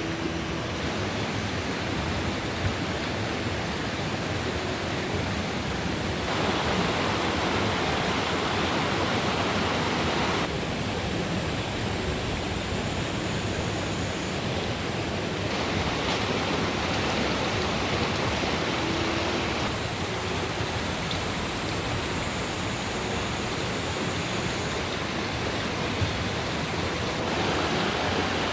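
Steady rain falling, a continuous hiss that grows a little louder or softer at a few points.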